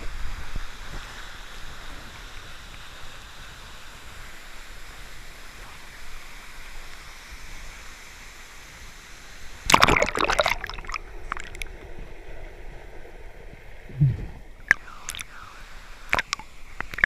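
Steady rush of waterfall water. About ten seconds in comes a loud, brief burst of splashing noise, then scattered smaller splashes and knocks, with a low thump a few seconds later.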